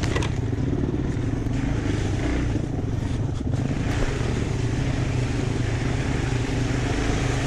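Dirt bike engine running at a fairly steady pitch and throttle while riding through a mud pit.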